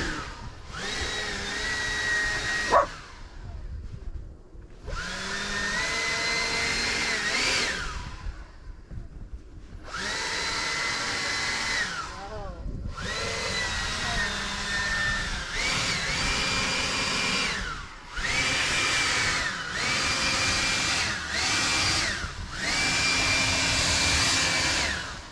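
Small electric motor tool whining in about eight bursts of a few seconds each, switched on and off repeatedly, the pitch rising as it spins up and falling as it winds down. A sharp click about three seconds in.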